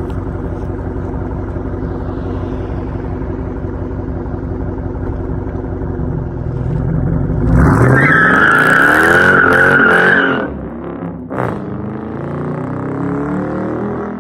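Dodge Charger Daytona's Hemi V8 through a Flowmaster Outlaw exhaust, idling, then revved up about seven seconds in and held for roughly three seconds with a high steady squeal over the engine note. It then drops back, gives one short blip and settles to idle again.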